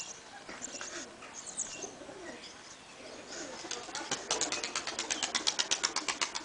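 Takla tumbler pigeons cooing, then, about four seconds in, wings beating in a fast, even run of flaps, about eight a second.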